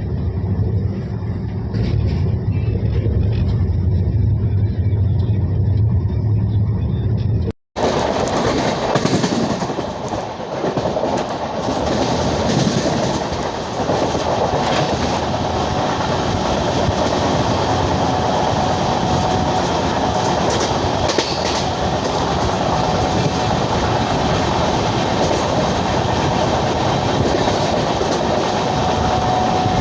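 An Azad Hind Express train of LHB coaches running along the track, its wheels on the rails giving a steady rumble with clickety-clack. About eight seconds in, the sound cuts abruptly from a deep, bass-heavy rumble to a brighter, hissier rush of running noise.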